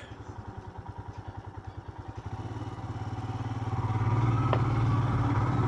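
Motorcycle engine running at low revs with an even pulsing beat, then pulling harder about two seconds in and growing louder into a steady drone.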